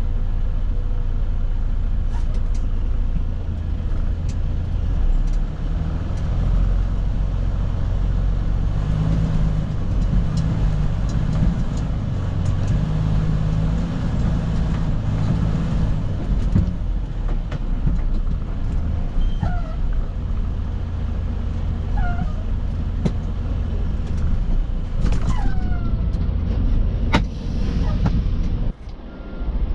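Semi truck's diesel engine idling steadily, with a few short falling squeaks in the second half and a sharp click near the end.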